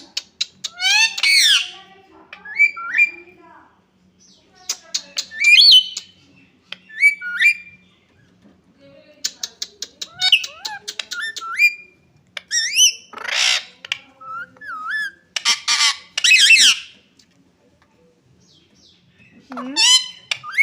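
Pet Indian ring-necked parakeets squawking and chattering in bouts, with fast runs of clicks and short rising, wavering whistles between harsh calls. There is a quiet pause of about two seconds near the end.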